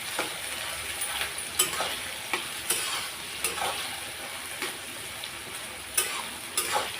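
Onions sizzling as they fry in hot oil in a kadhai, with a steady hiss and a spoon scraping and knocking against the pan about ten times as they are stirred, browning them to red before the masala goes in.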